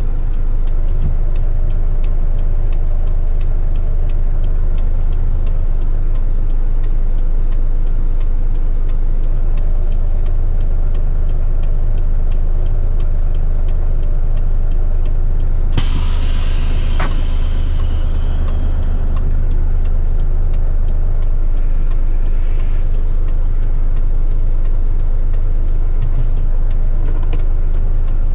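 Heavy rigid truck's diesel engine running steadily, with faint regular ticking. About halfway through comes a sudden hiss of air lasting a couple of seconds, from the truck's air brakes.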